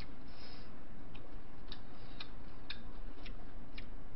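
Mouth chewing a mouthful of bibimbap: soft, wet clicks coming regularly about twice a second over a steady background hiss.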